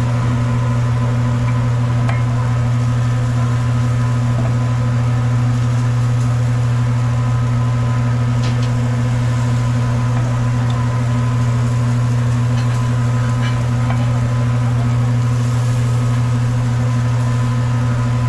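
A steady, unchanging low hum from a machine or electrical source, with a few faint ticks over it.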